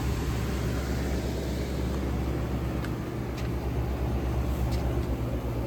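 Vintage window air conditioner running: a steady low hum of its compressor and fan, with a few faint ticks.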